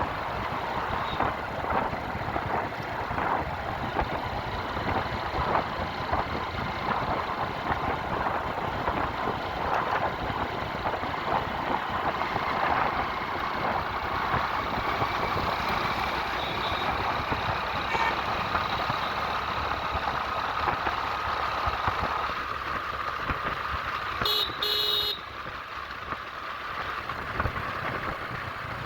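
Road traffic and rushing wind noise heard from a moving bike, with a vehicle horn honking once for about a second near the end.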